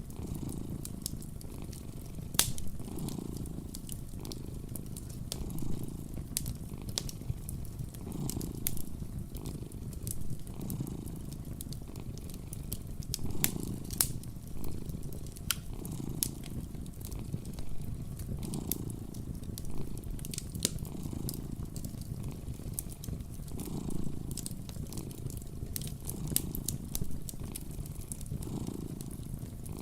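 Cat purring close up, a steady low rumble that swells with each breath about every two seconds, over the scattered sharp pops and crackles of a wood fire.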